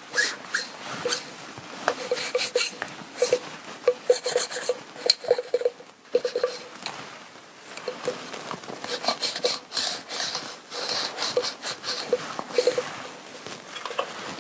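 Sticky lint roller rolled back and forth over fabric in repeated short passes, its tacky tape crackling as it lifts off the cloth.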